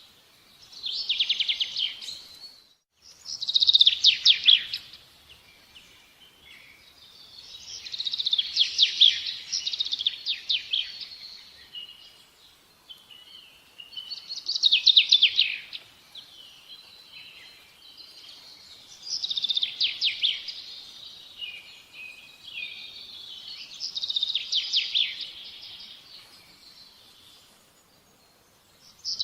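A songbird singing: bursts of fast, high chattering trills, one every four to five seconds, each lasting one to three seconds.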